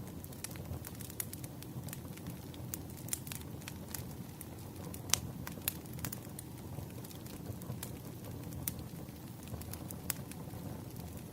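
Wood fire crackling, with irregular sharp pops over a low steady rumble; the loudest pop comes about five seconds in.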